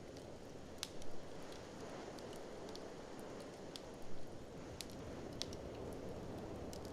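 Wood fire crackling in a fireplace, with scattered sharp pops over a steady low rush of blizzard wind. There are brief louder swells about one second and about four seconds in.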